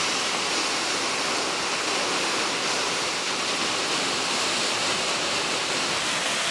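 Fast-flowing floodwater rushing, a steady hiss of water.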